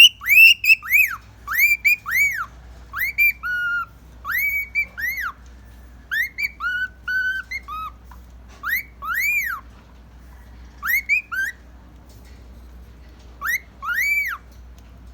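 Male cockatiel whistling its song: runs of clear notes that each rise and fall, in short phrases broken by pauses of a second or two.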